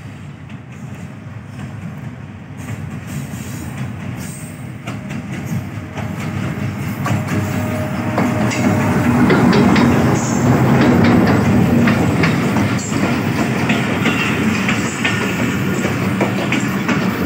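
Diesel locomotive pulling a passenger train into the station, growing steadily louder as it approaches and passes close by about ten seconds in. The coaches then roll past with the wheels clicking over the rail joints.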